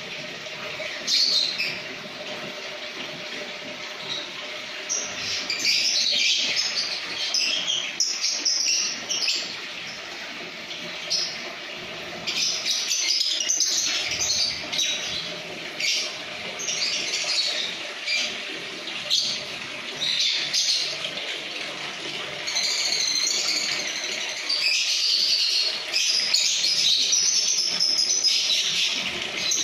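A colony of lovebirds chattering together in a dense, high, overlapping clamour that swells in bursts. This is the strong continuous 'ngekek' chatter kept lovebirds are bred for.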